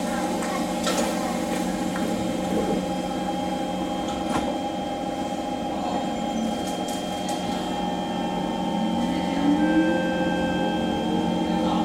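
SMRT C151 train interior: the steady hum of the train's onboard equipment while it stands at the platform, with a brief knock about four seconds in. In the last three seconds a rising whine sets in as the traction motors start the train moving.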